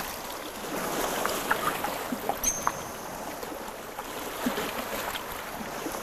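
Water lapping and splashing, with scattered small splashes, as spot-necked otters swim.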